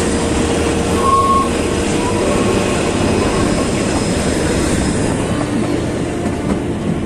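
Kalka–Shimla narrow-gauge toy train running along the track: a steady, loud rumble and rattle of the moving carriages, with a short high squeal about a second in.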